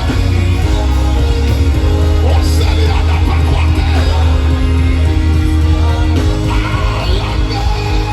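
Live worship band music played loud through a sound system: sustained chords with guitar and a heavy bass, with voices singing.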